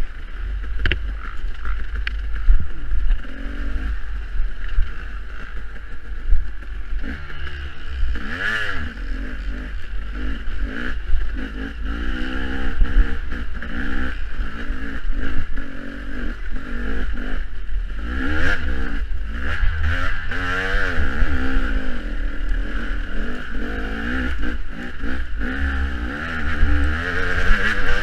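Off-road dirt bike engine revving up and down again and again as the rider works the throttle through a technical section, with heavy wind rumble on the microphone.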